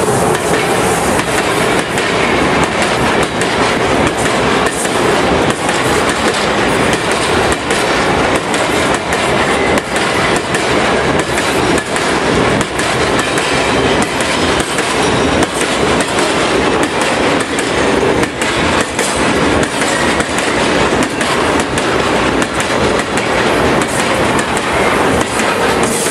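A freight train of open wagons, hauled by an electric locomotive, passing close by. Its steel wheels make a loud, continuous clatter, with many sharp clicks as they cross the rail joints.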